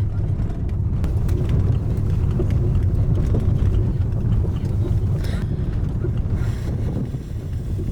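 Car driving over a rough, rocky dirt road, heard from inside the cabin: a steady low rumble of tyres and suspension with scattered knocks and rattles from the stones.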